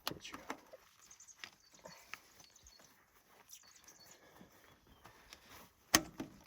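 Sparse light clicks and knocks from hand work on equipment, with one sharper, louder click near the end.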